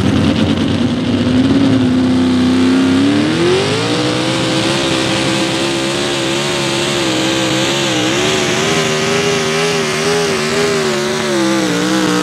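Mini rod pulling tractor's engine running hard. It revs up about three seconds in, then holds at high revs with a wavering pitch.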